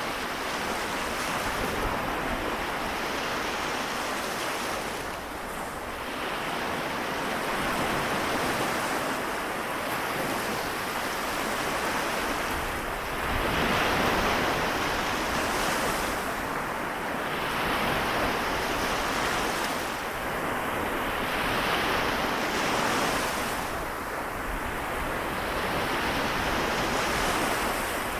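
Small waves washing onto the shore of the Seto Inland Sea, a continuous wash that swells and eases every few seconds, with a stronger wave about halfway through.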